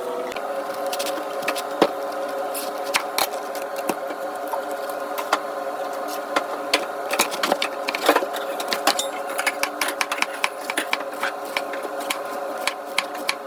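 A small electric motor humming steadily, with many sharp clicks and knocks over it.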